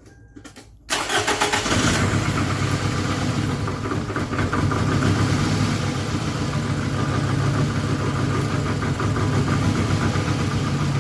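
2008 Toyota Camry engine cranking and catching about a second in, then idling steadily with the misfire still present.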